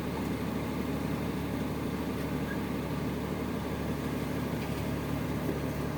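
Dump truck engine idling steadily.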